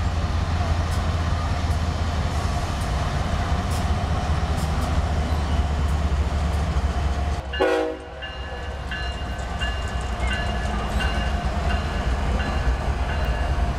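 BNSF diesel freight locomotives running past with a heavy, steady low rumble, then loaded coal hopper cars rolling by with thin high wheel squeal. A short horn note sounds about halfway through, where the level briefly drops.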